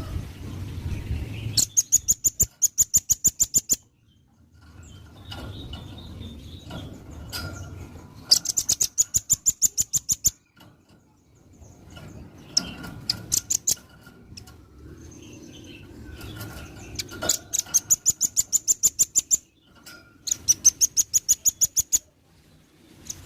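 Velvet-fronted nuthatch singing: four fast trills of sharp, high, evenly repeated notes, about eight a second, each trill lasting around two seconds, with low background noise in the gaps.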